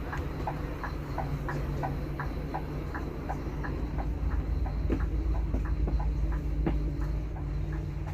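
Scania K380 bus engine running with a steady low drone. Over it comes a light, regular ticking about three times a second, with a few sharper clicks in the second half.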